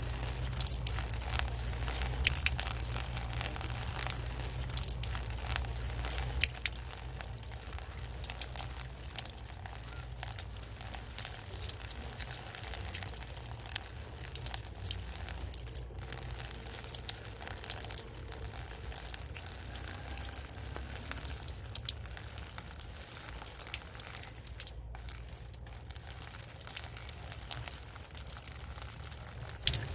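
Rain falling: a dense, continuous patter of small drop clicks over a steady low hum.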